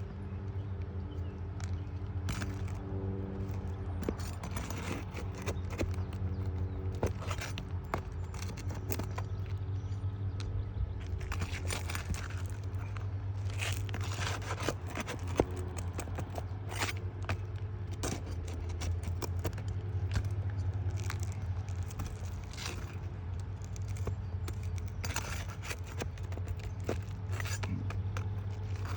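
Metal pry bar scraping and clicking under roof shingles as the nails are worked loose, in many short irregular scrapes and taps, over a steady low hum.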